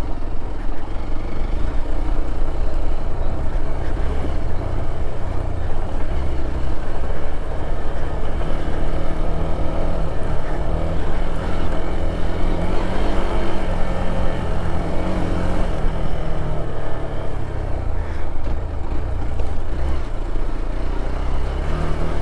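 Hero Xpulse 200 4V single-cylinder motorcycle engine running as the bike is ridden on an off-road trail, its engine speed rising and falling.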